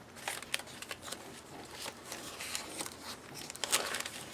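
Paper pages and tags of a handmade junk journal rustling and crinkling as they are handled and turned, with a louder rustle near the end.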